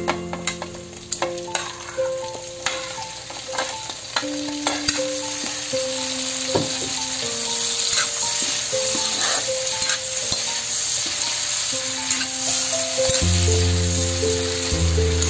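Whole shrimp sizzling in melted butter and minced garlic in a wok, with a spatula clicking and scraping against the pan as they are stirred. Background music plays alongside, its bass coming in strongly near the end.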